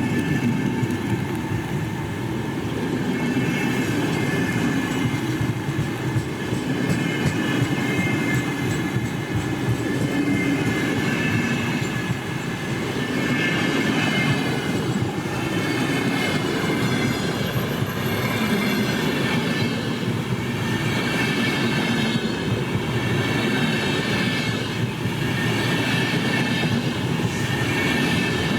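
A train rolling past on steel rails: a steady rumble of wagons and wheels, with high wavering squealing tones from the wheels on the rail.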